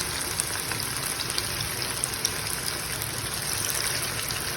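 Marinated chicken pieces deep-frying in hot oil in a kadai: a steady sizzle with small crackles and pops.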